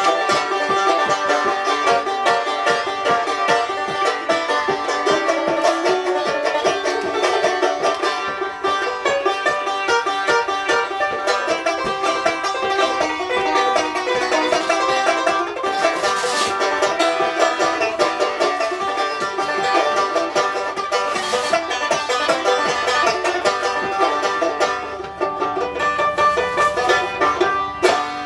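A banjo being picked in a quick, steady stream of notes, playing a tune. It softens for a moment about three-quarters of the way through, then comes back up near the end.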